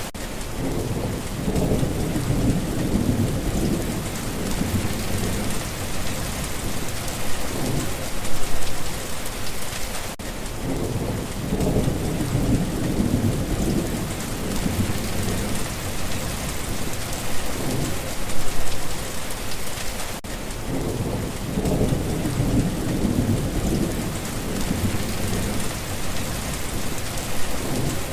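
Steady rain falling, with low rolling thunder rumbling three times, about ten seconds apart.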